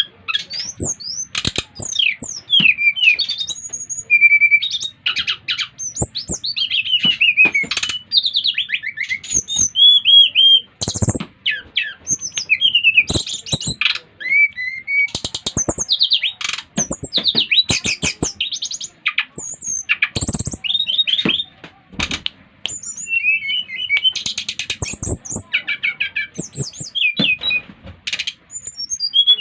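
SRDC (sikatan rimba dada coklat, brown-chested jungle flycatcher) singing continuously in full song, a fast run of varied whistled notes, trills and rapid rising and falling phrases. Sharp clicks come often between the phrases.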